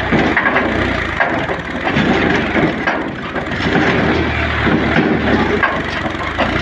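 Tractor engine running with a low steady hum under loud, continuous crackling and crunching noise.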